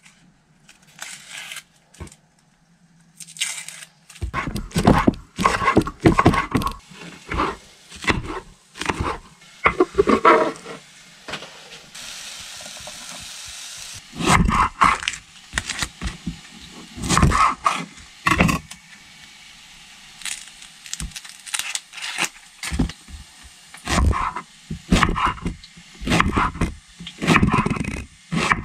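Chef's knife slicing through a red onion and knocking down onto a wooden chopping board in uneven strokes, the cutting starting about four seconds in after a few quieter clicks of handling.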